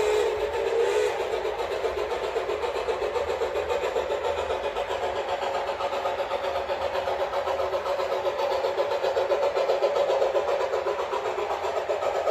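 Sound-equipped HO scale model of a Fairbanks-Morse H24-66 Train Master diesel locomotive. The horn finishes about a second in, then the diesel engine sound runs on, rough and pulsing, thin with no low end.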